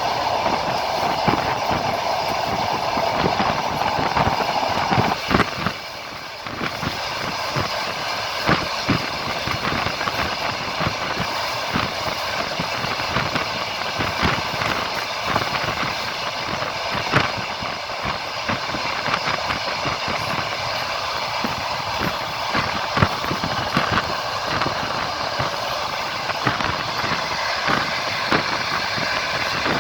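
Passenger train carriage running along the line, its wheels clacking over the rail joints above a steady rumble. A louder rushing noise in the first five seconds cuts off abruptly about five seconds in.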